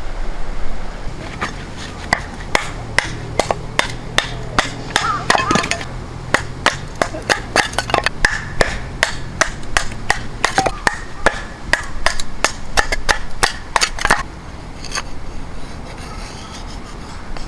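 A long series of sharp knocks, about two to three a second, stopping about three seconds before the end, over a steady low hum.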